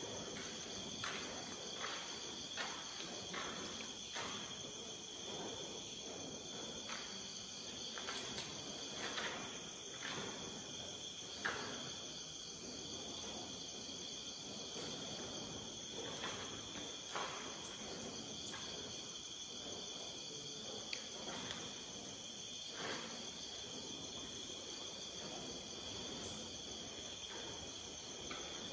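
Crickets and other insects chirping steadily at night, with scattered short knocks and clicks every second or two, thinning out after about eighteen seconds.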